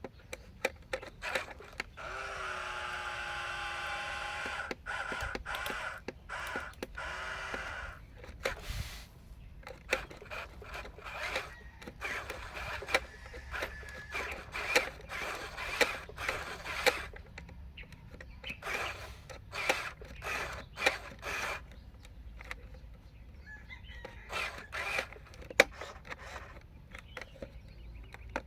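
Small electric motor and gearbox of a Huina RC construction model whining steadily for several seconds, with many sharp clicks and an irregular plastic clatter after it.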